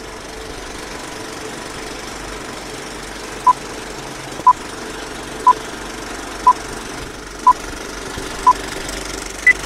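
Old-film countdown leader effect: a steady film-projector whirr with six short beeps one per second, then one higher beep near the end.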